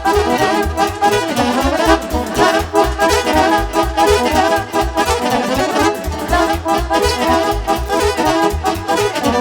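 Instrumental Romanian party music played live: saxophone and accordion carry the melody over a steady bass beat.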